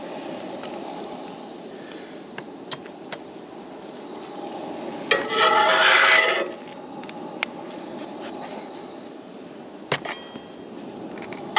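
A steady high-pitched chirring of insects, with a few sharp clicks and a louder scraping, rustling sound lasting about a second and a half, about five seconds in.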